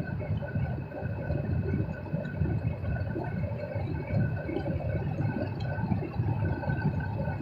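Car cabin noise while driving: a steady low road and tyre rumble, with a faint steady whine running under it.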